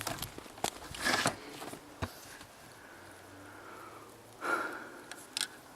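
A person sniffing and breathing, with two short noisy breaths about a second in and near the end, and light scattered clicks between them.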